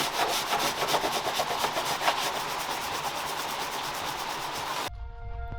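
Heavy rain drumming on a sailboat, a dense, steady patter of drops. It cuts off abruptly near the end, and music with sustained tones begins.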